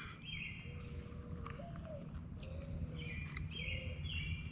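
A dove cooing softly in slow, drawn-out low notes over a steady high drone of insects, with short repeated chirps from another bird.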